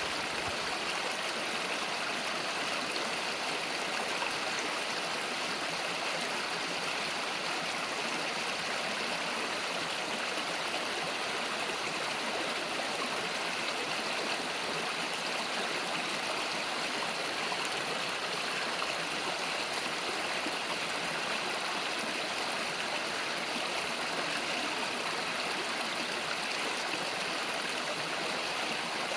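Small countryside river flowing, a steady even rush of water over stones.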